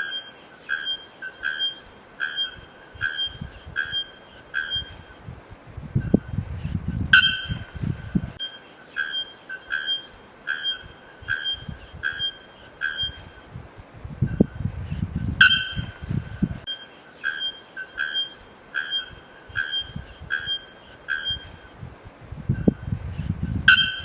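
A bird calling in runs of short, evenly repeated piping notes, about two a second. Each run starts with a sharper note, and a low rumble comes with the sharper note about every eight seconds.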